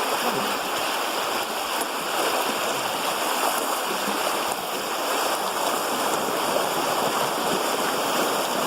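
A fast river rushing steadily.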